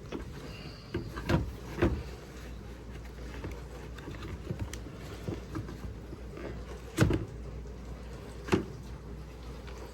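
Plastic clicks and knocks from a dishwasher's circulation pump being twisted open and handled. Light handling noise runs under four sharp knocks: a pair in the first two seconds and two more near the end.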